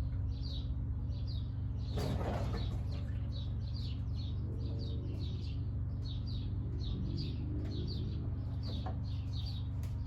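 Brastemp Ative 11 kg washing machine running with a steady low hum, while a small bird chirps over it in short notes, two or three a second.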